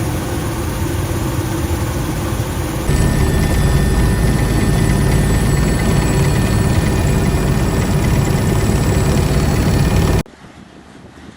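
Helicopter running: a loud, steady rotor and engine din with a high whine. It gets louder about three seconds in and cuts off abruptly near the end.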